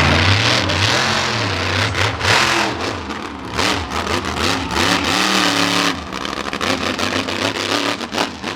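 Monster truck engine revving hard, its pitch rising and falling again and again as the throttle is worked, with a run of sharp cracks through it.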